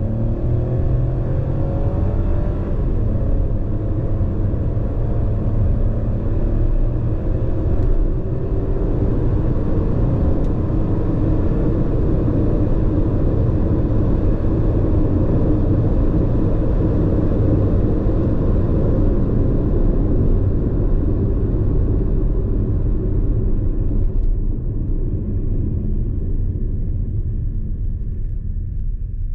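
2024 MG ZST's 1.3-litre turbocharged three-cylinder engine pulling under acceleration, its pitch rising over the first few seconds. It then settles into a steady drone mixed with road and tyre noise, which eases off near the end.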